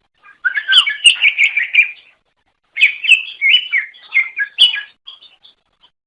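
Cucak ijo (green leafbird) singing: two quick runs of varied, warbling whistled notes with a short pause between them, and a few faint notes trailing near the end.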